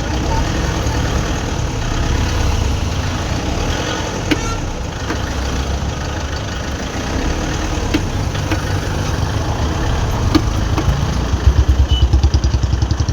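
Toyota Innova engine running at idle, a steady low rumble with a few sharp clicks. Near the end a fast, even pulsing knock grows louder for about a second and a half: the noise fault being checked.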